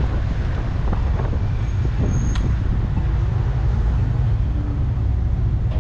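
Steady low rumble of wind buffeting the microphone on a moving bicycle, mixed with street noise.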